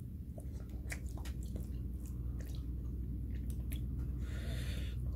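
A man eating a soft meal of chapatti, rice and green-gram dal: chewing with many small wet mouth clicks and smacks over a steady low hum, and a brief breathy hiss about four and a half seconds in.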